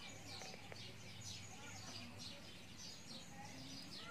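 Faint chirping of small birds: short, falling chirps repeating a few times a second, over a low steady hum.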